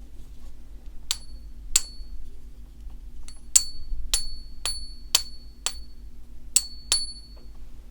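A one-ounce silver Russian ruble coin being tapped about ten times for a coin-pinger ping test. Each tap gives a sharp click and a short, clear, high ring that fades quickly; the pitch of that ring is what the app uses to judge whether the coin is genuine silver.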